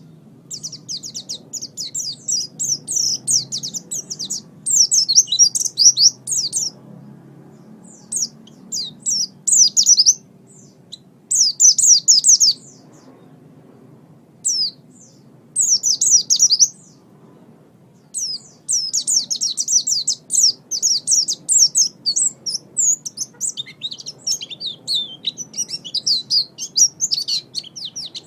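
Pleci (oriental white-eye) singing: fast, high twittering chirps in bursts of one to several seconds, broken by short pauses.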